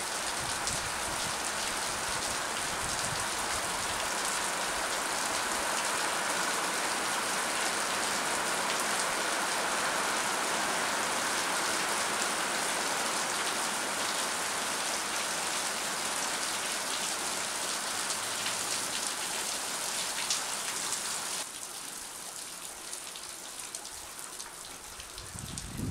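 Steady heavy rain falling on trees, leaves and grass, an even hiss of countless drops. About 21 seconds in it becomes noticeably quieter and softer.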